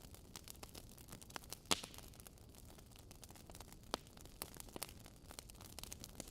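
Wood fire crackling in a fireplace: a soft hiss with irregular small snaps and a couple of louder pops, one about two seconds in and one near the middle.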